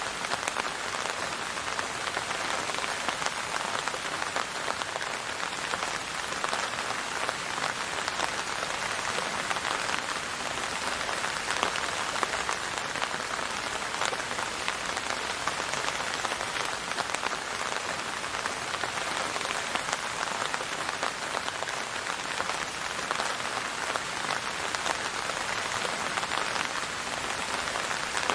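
Steady rain falling on a surface, a dense even patter of drops with no pauses or changes.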